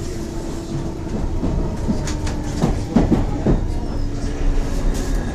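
London Underground C stock train running, heard from inside the carriage: a steady low rumble with a faint held tone, and a run of clicks from the wheels over the rail joints about halfway through.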